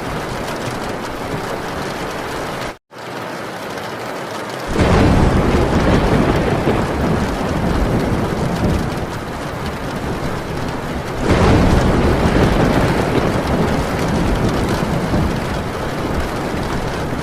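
Heavy rain drumming steadily on a metal tin roof, with thunder rumbling in twice, about five seconds in and again about eleven seconds in. The sound cuts out for a split second about three seconds in.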